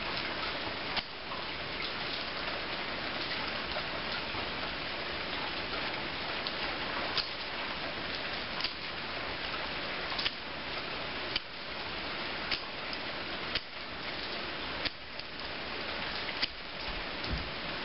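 Steady heavy rain, broken by a short sharp scrape about every second: a Ranger ferrocerium fire steel being struck over and over to throw sparks onto magnesium shavings and birch.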